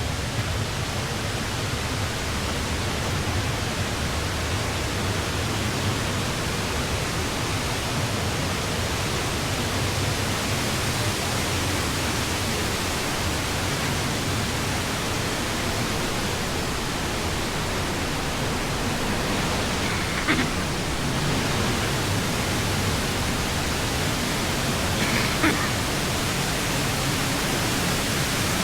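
Hooker Falls rushing: a steady, even roar of falling water with no letup. Twice in the latter part a brief faint sound cuts through it.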